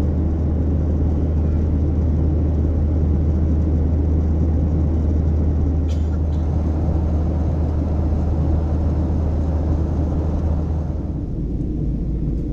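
Steady in-flight cabin noise of a Boeing 737-800: a low engine and airflow rumble, with one brief click about halfway. Near the end the low hum eases slightly.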